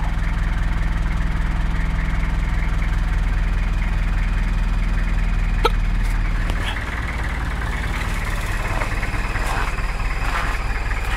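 1991 Nissan pickup (D21) engine idling steadily just after a cold start at −28 °C. A sharp click comes a little before halfway, and a little past halfway the idle drops and gets slightly quieter.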